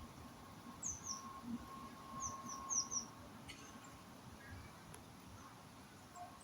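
A small bird chirping: a pair of short, high, falling notes about a second in, then four more in quick succession a little later.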